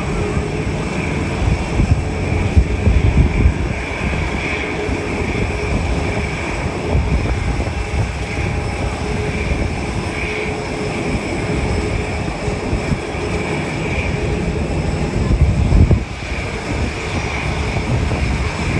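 Jet airliner engines running: a continuous rumble with a faint steady whine.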